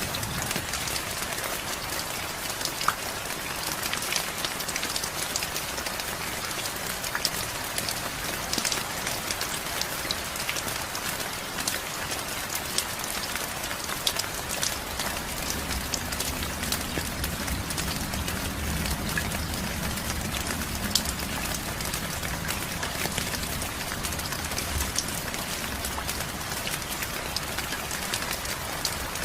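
Steady heavy rain falling, a dense even hiss of drops with many fine ticks. About halfway through, a faint low rumble joins it and fades out again near the end.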